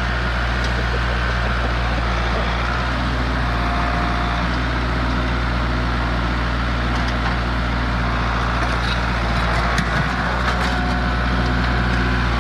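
Tractor engine running steadily at idle, with a few light knocks in the second half.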